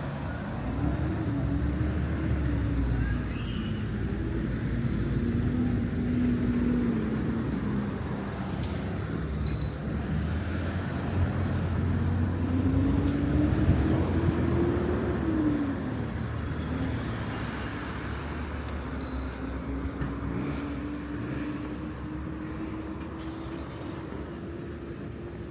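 Street traffic: vehicle engines passing and pulling away, their pitch rising and falling several times over a steady low rumble.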